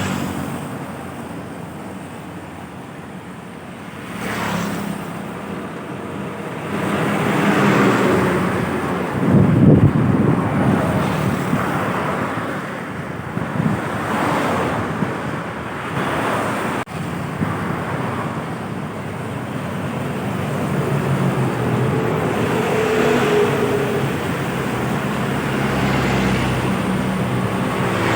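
Heavy road traffic: large trucks and buses drive past one after another, their engines humming low under the tyre and wind noise. The loudest and deepest one passes about ten seconds in.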